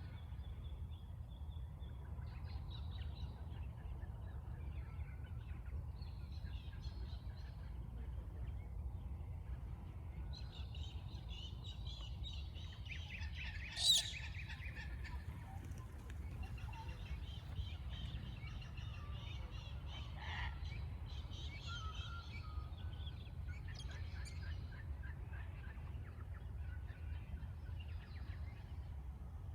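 Various birds chirping and calling on and off, with one brief loud, harsh call about halfway through, over a steady low rumble.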